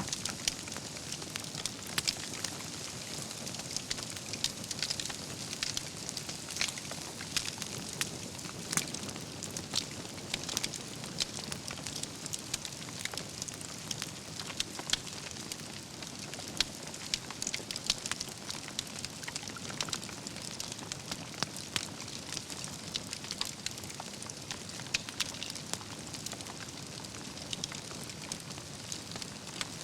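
Wood campfire burning, a steady hiss of flames with frequent irregular crackles and pops from the logs.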